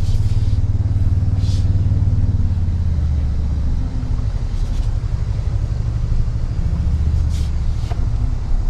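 Toyota Tundra pickup crawling along a rough off-road trail: a steady, loud low rumble from the engine and drivetrain, heard from inside the cab, with a few brief clicks or knocks.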